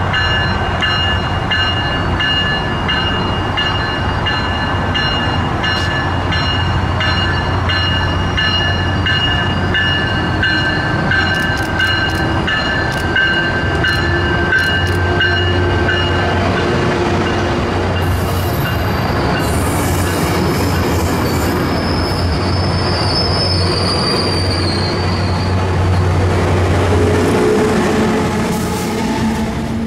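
Tri-Rail commuter train rolling past slowly, pushed by its diesel locomotive. A steady low engine hum runs underneath, and a warning bell rings until about halfway through, when the leading cab car has crossed. Wheels squeal later on, and the sound is loudest as the locomotive passes near the end.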